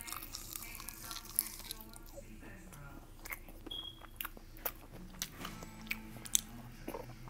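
Close-up chewing and biting into crunchy food, with irregular sharp crunches and mouth clicks.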